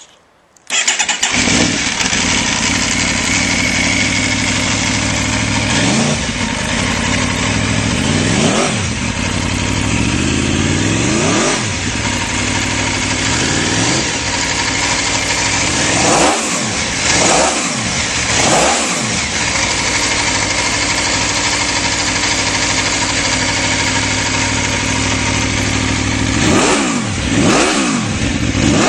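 Aprilia RSV4's V4 engine breathing through a LeoVince SBK Factory exhaust, starting up about a second in, then idling and revved in short blips, singly and in quick pairs, about eight times.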